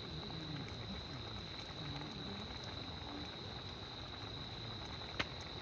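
Crickets singing in a steady high trill, with one sharp click about five seconds in.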